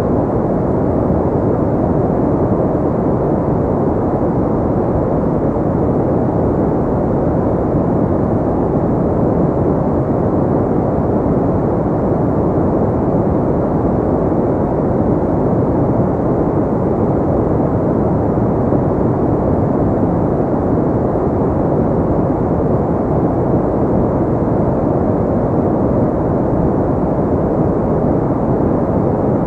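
Continuous generated pink noise: an even, unchanging rushing hiss with most of its weight in the low and middle range and little in the treble.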